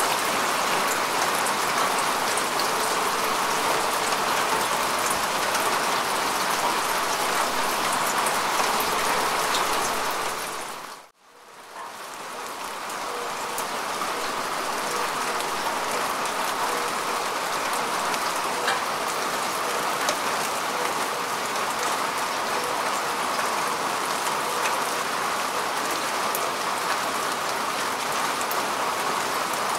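Steady rain falling on grass and earth, a dense even patter of drops. About eleven seconds in, the sound quickly fades almost to silence, then swells back up to full over a few seconds.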